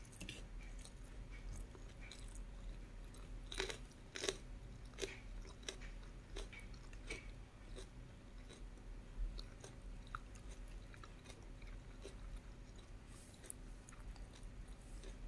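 A person chewing and biting food close to the microphone, with soft clicks throughout and a few sharper crunches between about three and a half and five seconds in.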